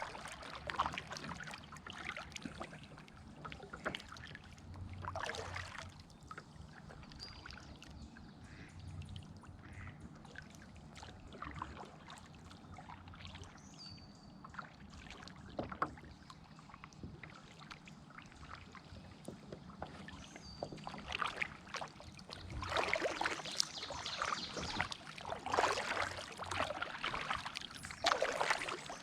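Kayak paddle strokes pulling through the water with splashing and dripping. The strokes come only now and then at first, then turn into a steady run of strokes over the last quarter.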